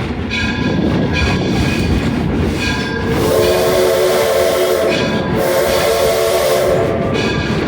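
Steam locomotive whistle of the 1873 Mason-built tank engine Torch Lake blowing two long blasts, the first about three seconds in and the second just after it, each with a steady chord over a steam hiss. Underneath is the steady rumble of the train rolling.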